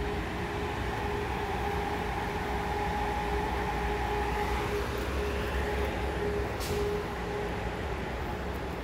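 Amtrak Cascades passenger train running with a steady low rumble and a constant hum. A single sharp click comes about two-thirds of the way through.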